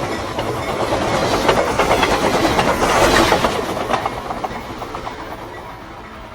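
Train passing at speed, its wheels clattering rapidly over the rails, swelling to a peak about three seconds in and then fading away.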